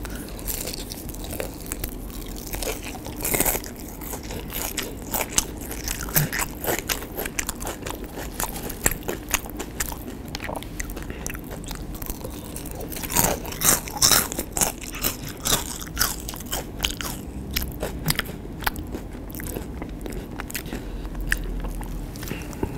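Close-miked bites and chewing of battered fried cempedak fritters (cempedak goreng): the crisp fried batter crunches and crackles in irregular bursts, loudest in a cluster a little past the middle.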